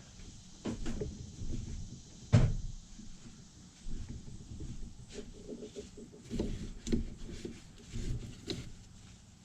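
Scattered knocks and clicks of starter parts and tools being handled on a workbench, the loudest about two and a half seconds in.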